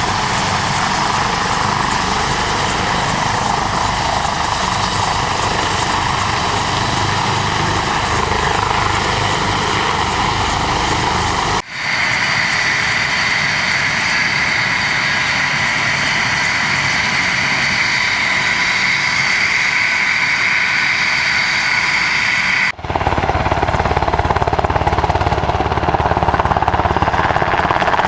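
Helicopter rotor and engine noise, loud and steady, in three stretches separated by abrupt cuts about 12 and 23 seconds in. The middle stretch carries a strong steady high-pitched whine.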